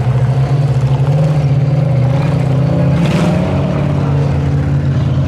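Competition truck engine running loud and steady under load, its pitch rising a little and easing back, with a short rush of noise about three seconds in.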